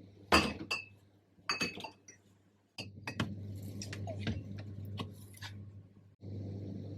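Dishes and glassware clinking as they are handled, a few sharp ringing clinks in the first two seconds. About three seconds in a low steady hum starts under further light clicks and knocks, breaking off briefly near the end.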